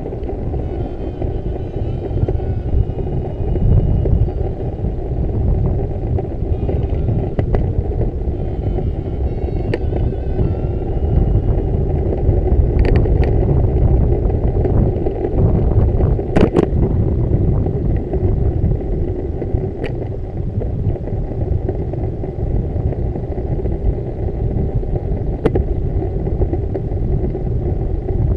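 Steady rumble of wind buffeting the microphone while riding a bicycle, with a few sharp clicks scattered through it.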